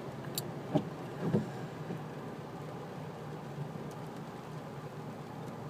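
Steady engine and road noise heard from inside a car driving at speed, with a couple of short clicks and blips in the first second and a half.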